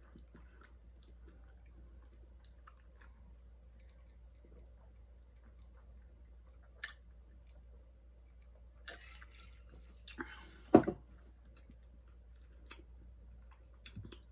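Close-miked eating and drinking sounds: quiet chewing and mouth noises with scattered small clicks, sips from a glass around nine seconds in, and one sharp louder knock near eleven seconds.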